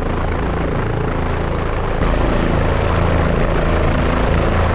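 Helicopter running on the ground, its engine and main rotor making a steady drone with a low rotor hum; it gets slightly louder about two seconds in.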